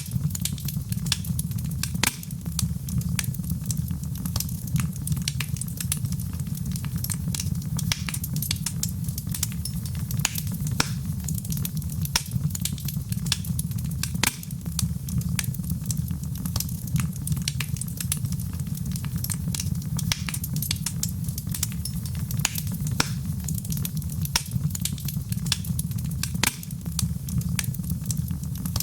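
Wood fire in a fireplace burning with a steady low rumble and many irregular sharp crackles and pops, several a second.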